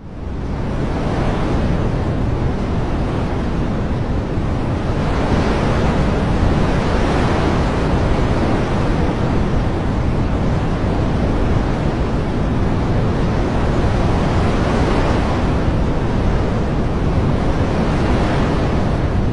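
A dense, steady rush of water noise that swells and eases slowly every few seconds, after a brief dip at the very start.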